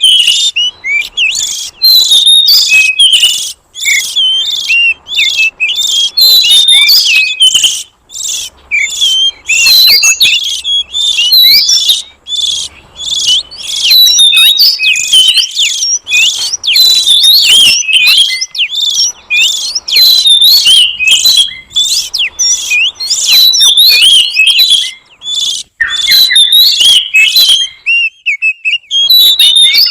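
Oriental magpie-robin (kacer) singing: a fast, unbroken stream of varied clear whistles and chirps, high-pitched, with a short pause near the end.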